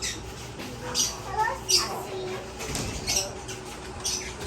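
Caged birds in an aviary giving short, sharp chirps and squawks several times over a murmur of people's voices.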